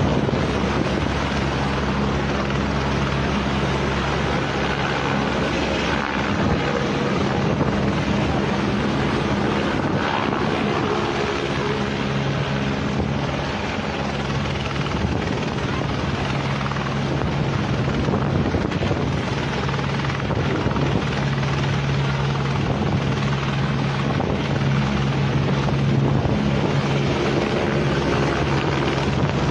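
Helicopter running steadily, its rotor and engine giving a constant low drone under a wash of noise.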